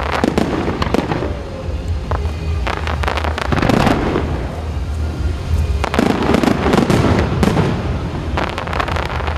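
Aerial fireworks bursting and crackling in several clusters of rapid bangs, with a steady low hum underneath.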